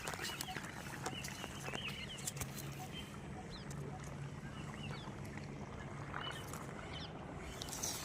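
Outdoor field ambience: short bird chirps come and go over a steady low hum.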